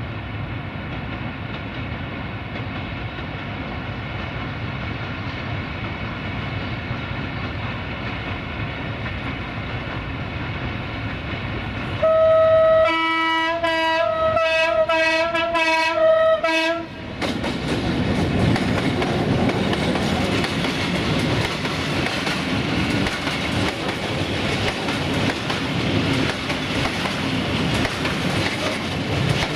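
Electroputere 060-DA (LDE2100) diesel-electric locomotive approaching under power, its Sulzer engine's drone building steadily. About twelve seconds in it sounds its horn, one long blast and then a string of short toots. It then passes, followed by the rumble and clickety-clack of freight wagons rolling by.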